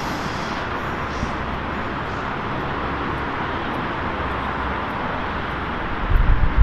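Steady rolling noise of a train passing. Low wind buffeting hits the microphone near the end.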